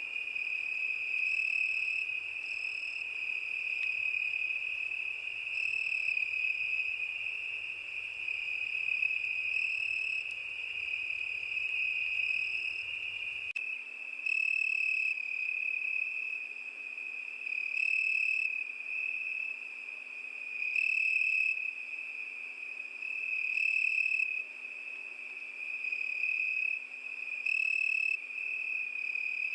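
Crickets singing: a continuous high-pitched trill. In the second half the trill swells louder about every three seconds, and a faint low rumble underneath stops about halfway.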